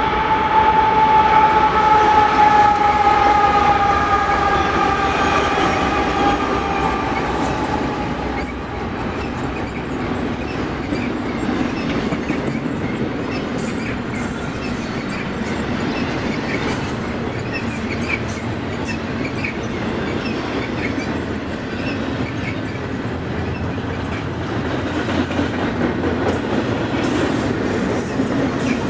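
Double-stack intermodal freight train rolling past: the steady rumble and clatter of loaded well cars on the rails. For the first eight seconds or so a long high-pitched tone sounds over it, sliding slightly lower and fading out.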